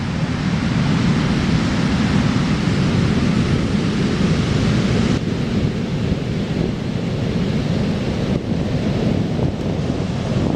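Heavy surf pounding the shore in a steady rush, the big swell sent in by a distant typhoon, with wind buffeting the microphone.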